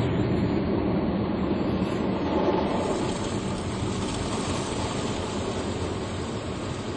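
Automatic car wash machine working over the car, heard from inside the cabin: a steady rushing of water spray and machinery on the bodywork.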